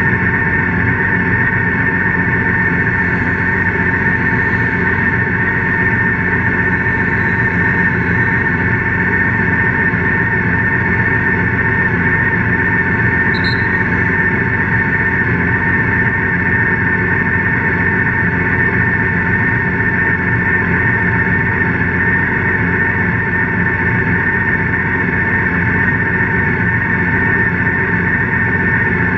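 BMW K1600GT police motorcycle's inline-six engine idling steadily while the bike stands still: a constant low hum with a steady high whine over it.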